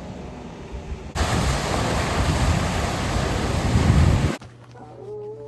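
Loud steady rushing noise, starting abruptly about a second in and cutting off abruptly about three seconds later. Near the end comes a short high-pitched note over a low hum.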